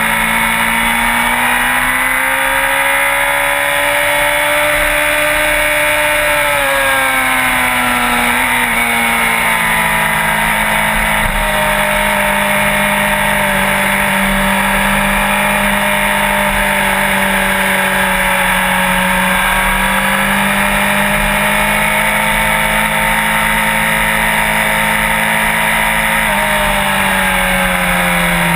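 Sport bike engine running under way at fairly steady revs. Its pitch rises over the first few seconds, drops about seven seconds in, and eases lower again near the end.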